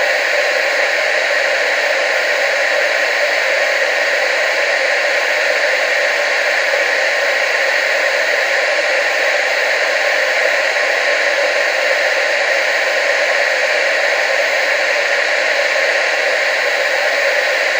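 Analogue TV static: a steady, loud hiss of white noise that never changes.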